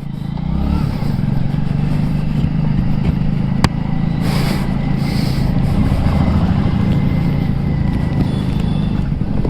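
Motorcycle engine running steadily while riding, with a single sharp click a few seconds in and two short hisses just after it.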